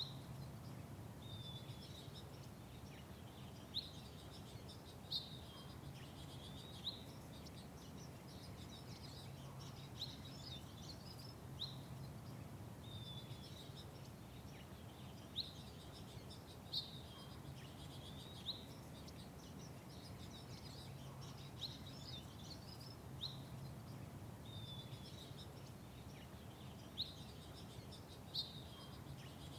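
Small birds chirping in short, sharp notes every second or two, over a steady low background hum.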